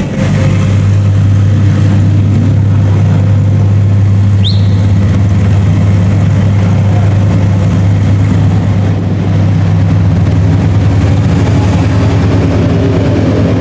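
Racing car engines running steadily as a loud, even low drone with no rise or fall in pitch. About four and a half seconds in there is one short high rising chirp.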